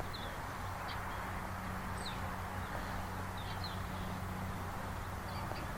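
Outdoor ambience with scattered short, high chirps of small birds, about one every second, over a steady background hiss and a low, even hum.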